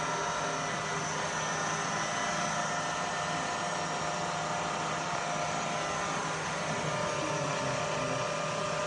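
Milling machine spindle running steadily in its belt-driven variable-speed head, a constant motor hum with several held tones. A higher tone grows a little stronger near the end.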